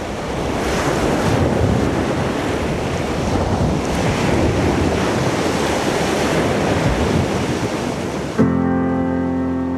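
Recorded ocean surf, a steady wash of waves, then about eight seconds in a sustained piano chord enters as the surf falls back.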